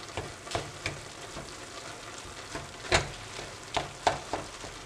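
Ground meat frying with onion and garlic in a pan, a steady sizzle, while a wooden spatula stirs and presses it. Short scrapes and knocks of the spatula against the pan come through the sizzle, the loudest about three seconds in and again about four seconds in.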